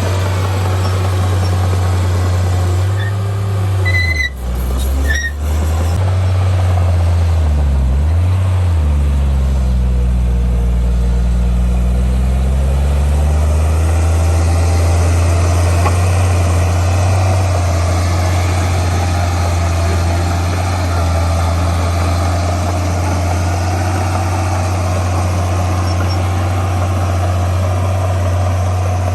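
Heavy diesel engine of earthmoving machinery running steadily at a low pitch. Two sharp knocks come about four and five seconds in, and the engine note briefly drops and recovers around eight seconds.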